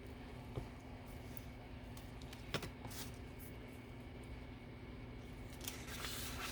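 Light handling of paper and craft tools on a desk: a few sharp clicks and taps, one louder than the rest about halfway through, and a short paper rustle near the end, over a steady low room hum.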